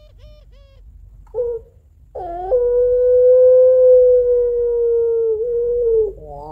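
Female puter pelung (ringneck dove) giving its long crying call to a male: a few quiet quick short coos, a brief note, then one loud, long, steady drawn-out tone of about three and a half seconds that sinks a little and breaks into a wavering glide near the end.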